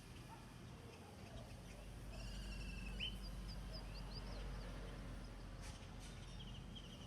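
Birds singing in the background: a few short high chirps, a brief trill and one falling whistle, mostly in the middle, over a steady low rumble of wind on the microphone.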